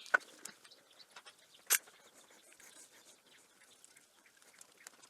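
Light clicks, taps and scratching from metal parts being handled and fitted together while a ball turning jig is assembled, with a sharper click right at the start and another a little under two seconds in.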